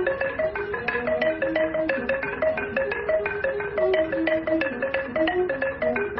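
Background music played on marimba or xylophone: a quick, busy run of struck mallet notes.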